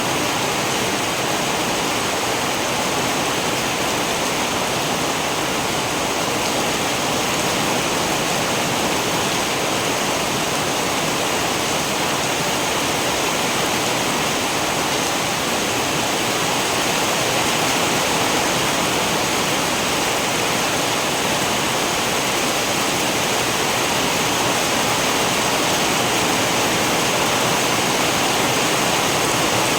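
Steady heavy rain, an even rushing hiss with no single drops or thunder standing out.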